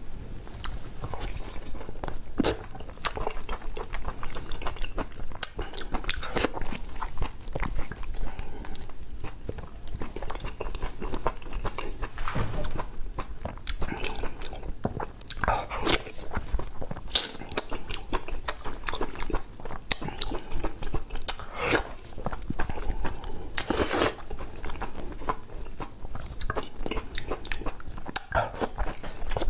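Close-miked eating: a person biting and chewing food, with crunches and wet mouth smacks coming irregularly, several to the second.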